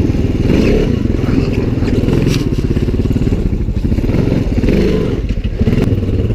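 ATV engine running under way on a snowy trail, its pitch rising and falling with the throttle, with a few knocks from the machine.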